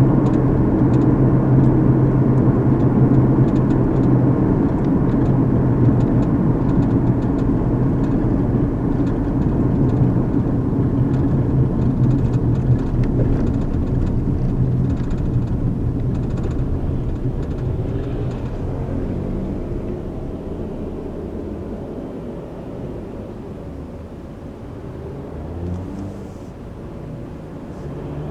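Car interior driving noise: steady tyre and road rumble with an engine hum, heard from the passenger seat. It fades gradually through the second half.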